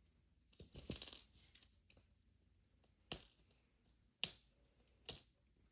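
Faint crinkling of a plastic wrapper being peeled off a Mini Brands capsule ball, then three short sharp crackles about a second apart.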